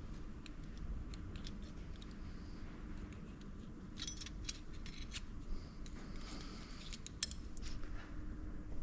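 Scattered light metallic clicks and clinks of small hand tools working on the piston of a hydraulic cylinder, with two busier runs of clicks around the middle and near the end, over a low steady background hum.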